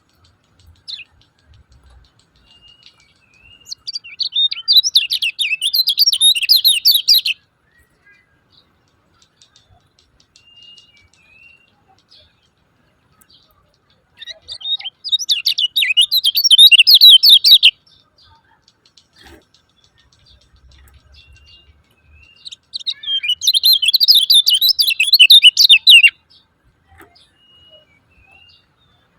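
Kecial kuning white-eye giving its rapid 'ciak ciak' chatter in three long bursts of fast, high chirps, with a few faint single chirps between the bursts.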